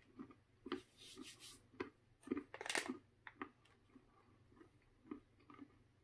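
Faint crunching of a mouthful of roasted peanuts being chewed, in a rough rhythm of about two bites a second. A foil snack pouch crinkles as it is handled, about a second in and again between two and three seconds in.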